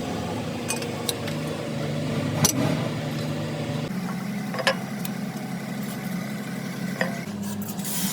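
An engine or motor running steadily, with a few sharp clicks or knocks over it.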